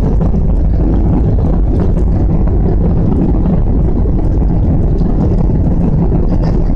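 Airliner jet engines at takeoff power, heard inside the passenger cabin as a loud, steady low roar.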